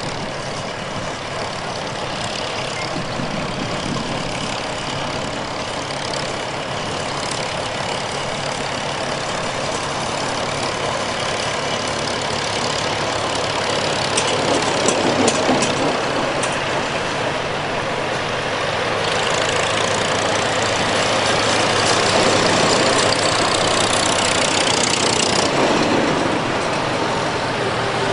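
Antique farm tractor engines running steadily, growing louder through the second half.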